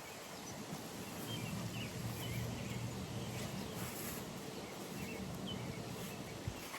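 Outdoor pond ambience: small birds chirping now and then over a steady low hum and a soft background hiss, with a single click near the end.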